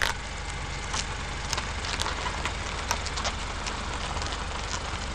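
Car engine idling steadily: a low hum with a fine even pulse and scattered light ticks. A sharp click comes at the very start.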